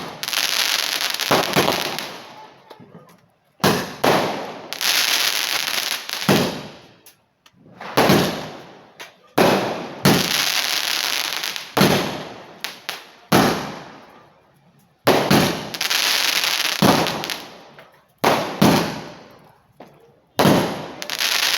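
A multi-shot fireworks cake firing shot after shot, about one every one to two seconds and sometimes several in quick succession. Each shot is a sharp bang followed by a hissing tail that fades over a second or two.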